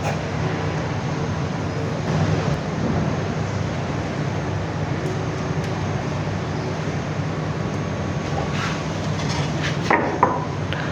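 Steady low rumbling background noise, with a few faint clicks and a short louder burst near the end.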